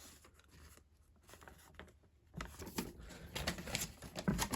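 Soft paper rustling and small sharp clicks as a printed Lego instruction booklet is handled and leafed through, quiet at first and busier from about halfway in.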